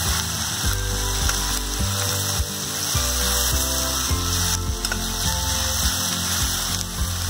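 Sliced onions frying in oil in a steel kadai, sizzling steadily, while a metal spatula stirs them, scraping and clicking against the pan.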